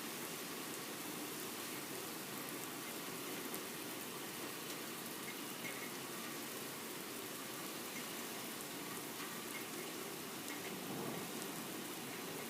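Steady rain falling during a thunderstorm, an even hiss with scattered drop ticks, and a low rumble of thunder building near the end.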